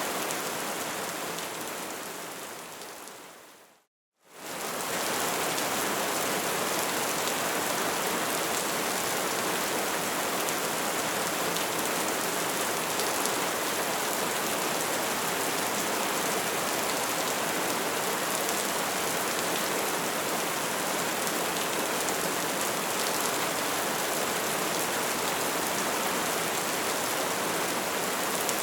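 Bonfire crackling steadily, a dense hiss of small pops. About four seconds in it fades out to a moment of silence, then fades straight back in.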